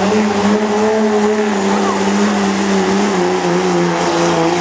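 Cummins diesel engine of a 1996 Dodge pickup running hard under heavy load while pulling the weight sled. It holds a loud, steady pitch that sags slowly lower over the seconds as the load builds.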